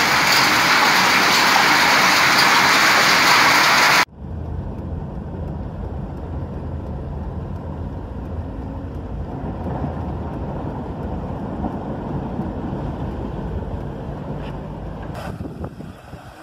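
Heavy rain pouring down, a loud, even hiss, cut off abruptly about four seconds in. Then a low, steady rumble of a car driving through a flooded street, heard from inside the car.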